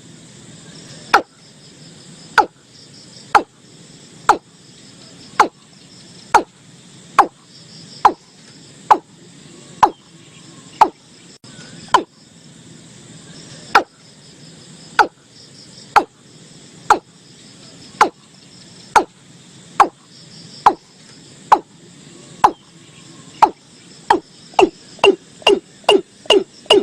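Watercock (Gallicrex cinerea) calling: a long series of short, deep notes about one a second, quickening to about three a second near the end. A faint steady chirring of insects runs underneath.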